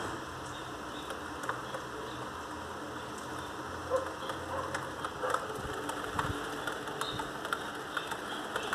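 Steady rain falling, with individual drops ticking here and there.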